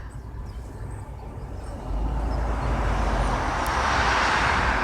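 Road traffic noise: a low rumble with a rushing hiss that swells about two seconds in and holds.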